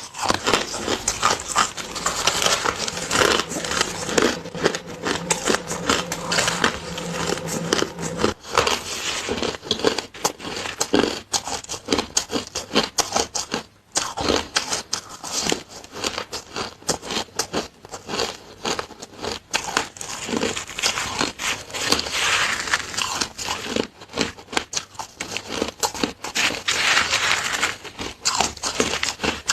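Close-miked crunching and chewing of frozen, flavoured shaved ice: a continuous run of sharp crackles and crunches.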